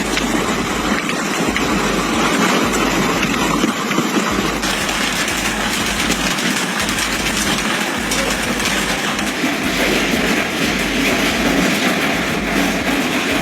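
Heavy hail pelting hard surfaces, a dense, steady rattle of countless small impacts.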